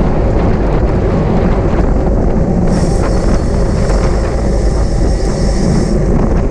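Loud, steady wind rush on the microphone of a camera moving at speed with a bicycle in a criterium race. For about three seconds in the middle a higher hiss joins it.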